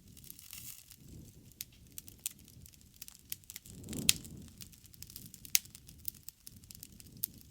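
Wood bonfire crackling: many sharp pops and snaps over a low rush of flame. The loudest pop comes about four seconds in, with a swell in the flame's rush.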